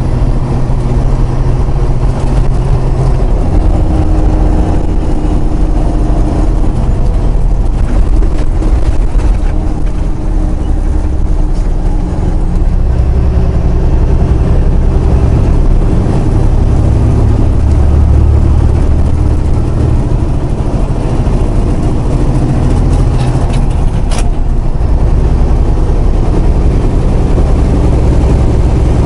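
Semi truck's diesel engine and road noise heard from inside the cab while driving; the engine note shifts in pitch a few times. A short sharp click sounds late on.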